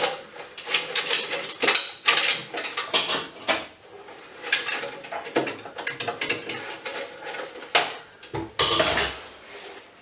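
Small metal parts and hand tools clinking and clattering as an electrical fixture is taken apart by hand: a dense run of sharp clanks and rattles, with a longer rough scrape about eight seconds in.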